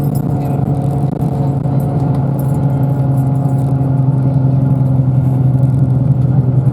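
Bus engine running steadily under way, heard from inside the passenger cabin, its note easing slightly lower partway through, with light rattling.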